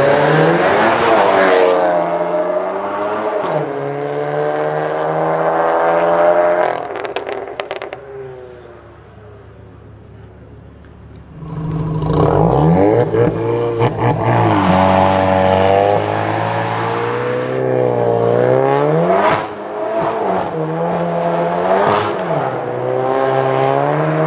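Sports car engines accelerating hard one after another, each rising in pitch through the revs and dropping at gear changes. There is crackling as one pulls away and the sound fades to a quieter stretch in the middle, then more hard accelerations with a couple of sharp cracks near the end.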